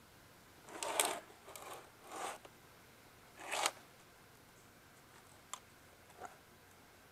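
Handling noise from an electric motor stator with cut copper windings being picked up and turned over: four short scraping, rustling sounds in the first four seconds, then two light clicks.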